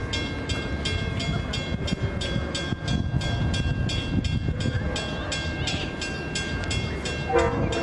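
A train running, heard as a low rumble with a fast, even clicking about four times a second.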